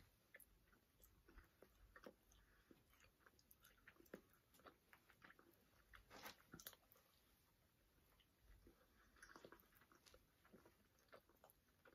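Faint chewing of soft glazed donuts by two people, with a scatter of small irregular mouth clicks.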